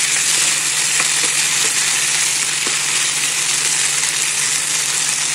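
Sliced potatoes and onions sizzling steadily in oil in a nonstick frying pan, with a few light clicks from a wooden spatula stirring them.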